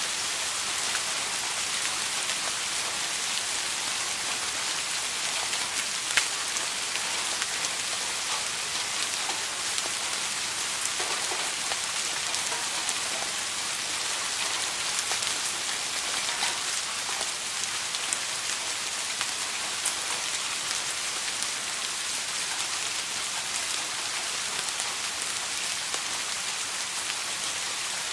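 Steady rain falling on a surface, a continuous hiss dotted with individual drop ticks, one a little louder about six seconds in.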